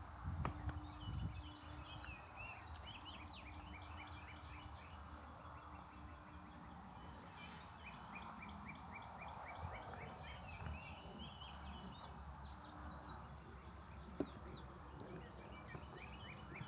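Songbirds chirping in quick runs of short repeated notes, over a faint low outdoor rumble.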